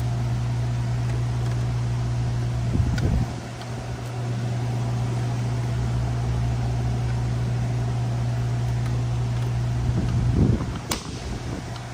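A steady low machine hum, such as a shop fan, runs throughout. It dips briefly twice, each time with a short sharp click, about three seconds in and near the end.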